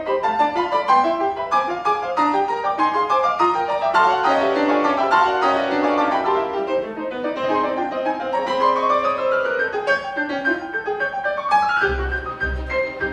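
Piano playing fast runs and chords with a string orchestra in a classical concerto. A rising run sweeps up a little after the middle, and deep low notes start beating out an even pulse near the end.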